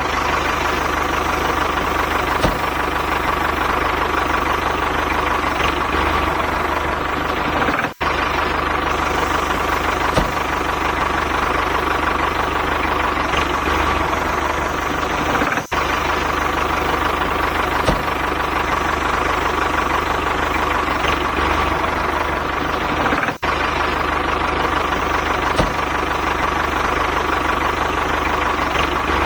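Engine-like machine running steadily at an even pitch, with brief dropouts about every eight seconds.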